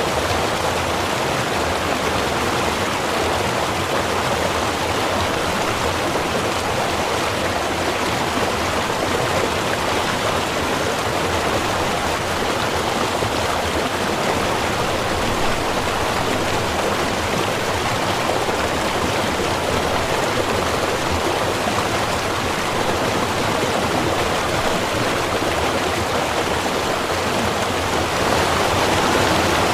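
Small river or stream running steadily over rocks: a continuous rushing of water.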